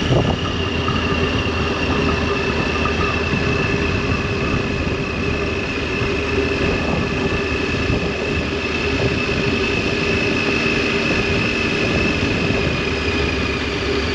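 Triumph Tiger 800's three-cylinder engine and exhaust running at a steady cruise, the engine note sinking slowly in pitch.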